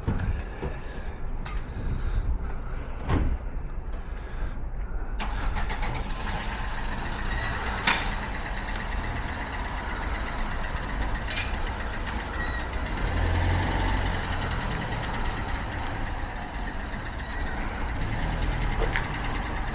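A motor vehicle's engine running steadily at idle, with a wider hiss joining in about five seconds in and a couple of sharp clicks later on.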